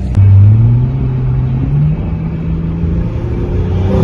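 A car engine accelerating, its pitch climbing over about the first two seconds and then holding steady. A short sharp noise comes right at the end.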